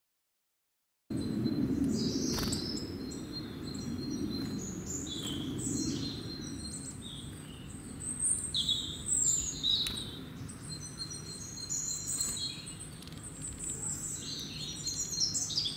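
Birds chirping, many short high calls and quick sweeps, over a low background rumble with a few faint clicks. The sound starts suddenly about a second in and cuts off abruptly at the end.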